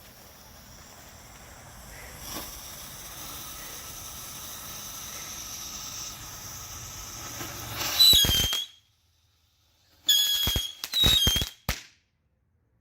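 Three small Dominator Happiness Fountains burning, their hissing spray slowly growing louder. About eight seconds in they burst with a loud crack and a falling whistle, then two or three more sharp pops with whistles follow near the end as they blow up into the air.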